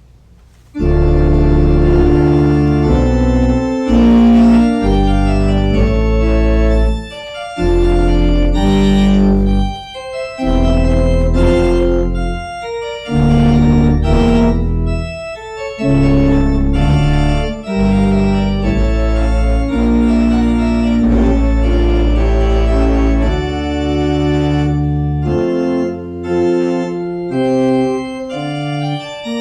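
Organ playing a postlude of loud, sustained chords over a deep bass line, starting about a second in, with the chords changing every second or two.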